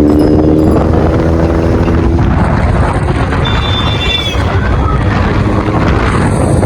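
Suzuki GSX-S750 motorcycle under way, its engine running at a steady pace under heavy wind noise on the microphone. A short high tone sounds about three and a half seconds in.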